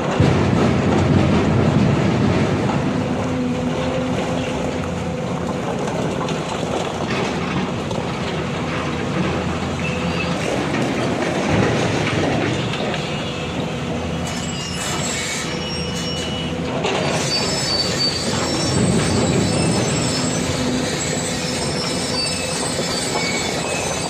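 Heavy diesel machinery running steadily, with high metallic squeals joining in from about fourteen seconds in.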